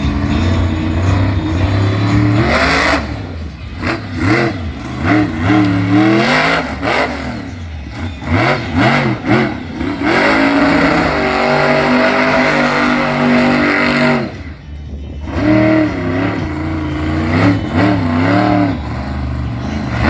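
Monster truck engine revving hard, its pitch rising and falling over and over, held high for a few seconds about halfway through, then dropping away briefly before revving again.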